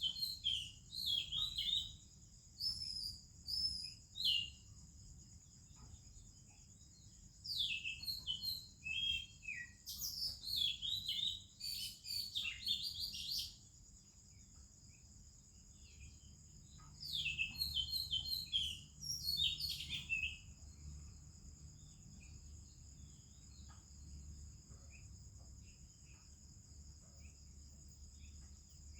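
Oriental magpie-robin singing in three bouts of quick, varied whistled and warbled phrases with pauses between, over a steady high insect drone.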